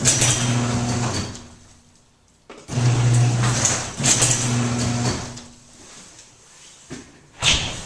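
Electric garage door opener motor humming as it runs in two short bursts of about two and a half seconds each, stopping in between, with a sharp knock near the end.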